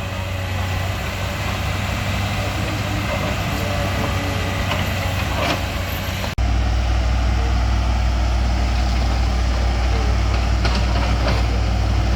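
Truck engines running steadily in slow traffic, a low hum. The sound cuts abruptly about six seconds in, and after the cut the low engine hum is louder and closer.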